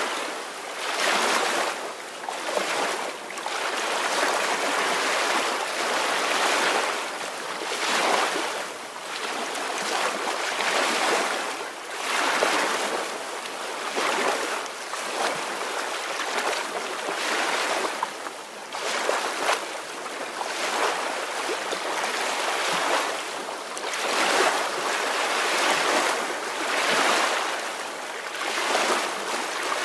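Ocean surf: gentle waves washing in and breaking, a steady rush of water that swells and eases every second or two.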